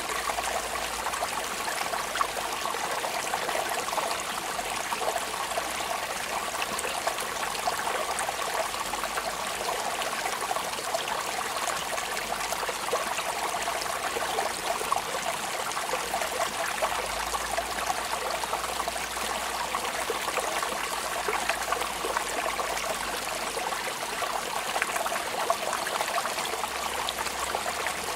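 Steady rain falling: an even wash of water noise flecked with many small drop ticks, unchanging throughout.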